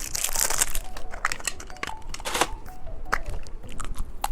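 Plastic candy wrapper crinkling and tearing as it is opened, a dense rustle at first, then several sharp separate crackles.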